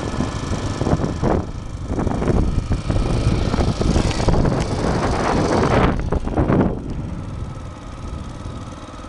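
A motor vehicle's engine running, with gusts of wind noise on the microphone that swell and fade.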